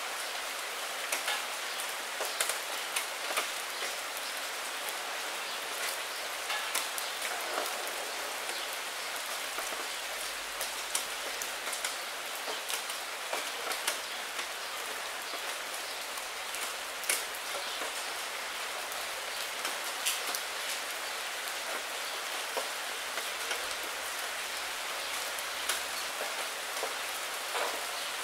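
Steady rain with many separate drops tapping on window glass, a continuous hiss dotted with sharp ticks.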